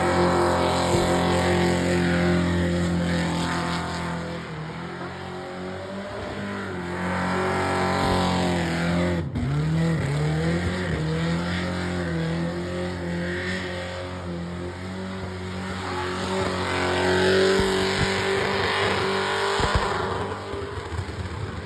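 A car engine held at high revs during a burnout, with a hiss of spinning tyres. About halfway through, the revs dip and then climb again.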